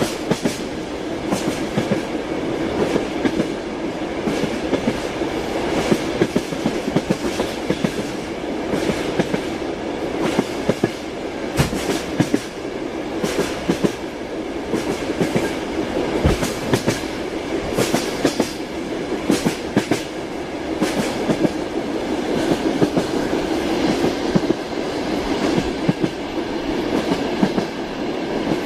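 Train running along the track: a steady rumble of wheels on rails, broken by frequent irregular clacks as the wheels pass over rail joints.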